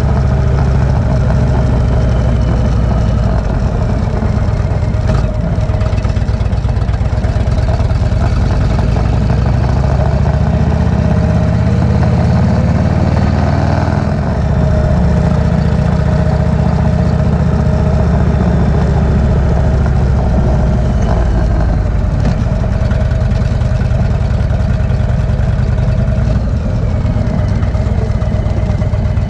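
V-twin cruiser motorcycle engine running steadily underway, its note shifting in pitch about halfway through.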